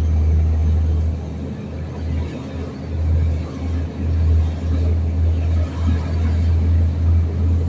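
Garbage truck running on its route, a low, uneven rumble that dips in level for a couple of seconds about a second and a half in.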